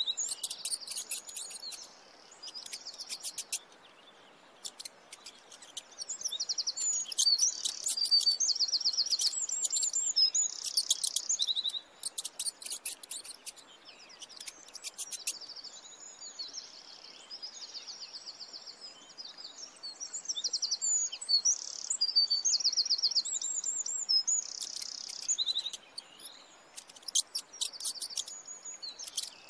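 Small songbirds chirping and singing, with high whistled notes and rapid, dry trills coming in busy spells. Quieter lulls fall a couple of seconds in and again in the middle.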